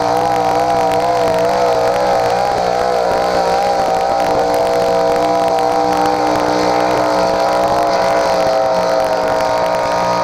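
Ford pulling truck's engine held at high revs under full load during a pull, a loud, steady singing note with a slight waver in pitch.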